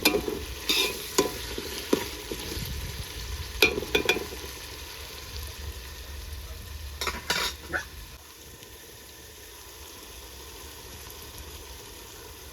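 Food frying in hot oil in a pan while it is stirred, browning toward golden: a steady sizzle with the utensil scraping and clicking against the pan, the stirring strokes stopping about two-thirds of the way through and leaving the sizzle alone.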